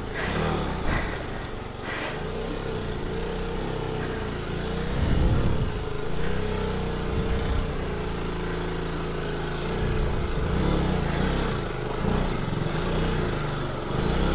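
Single-cylinder adventure motorcycle engine running at low revs in first gear, the engine note rising and falling as the rider feeds the clutch and throttle over rough ground.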